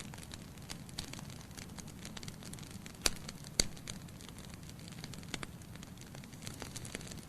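Wood logs burning in a fireplace, crackling with many small snaps over a low, steady rush of flame. Two sharp, louder pops come about three seconds in, half a second apart.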